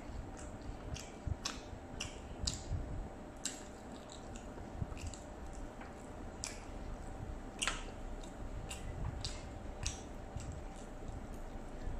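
Close-up eating sounds: chewing with wet, smacking mouth clicks coming irregularly, many times over.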